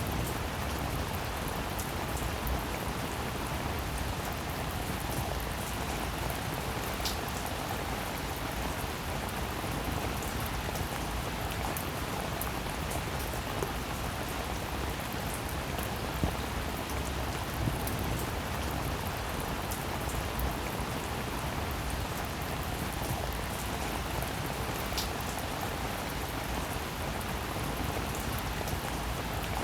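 Steady rain, a continuous even hiss with many small sharp drop ticks scattered through it. Two slightly louder drop ticks stand out.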